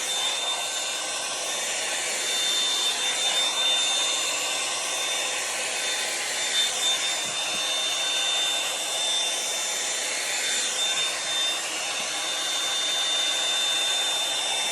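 Revlon One-Step hot-air brush running steadily: a continuous hiss of blown air with a thin, high motor whine, as it is drawn slowly through the hair.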